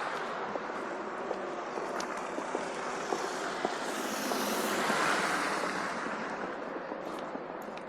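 Rushing hiss of tyres on a slushy, snow-covered street, swelling as a vehicle passes about four to five seconds in, then fading.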